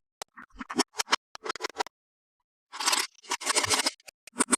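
Toys and packaging handled up close: a run of short clicks and taps, a brief pause, then two longer scraping rustles, then more clicks.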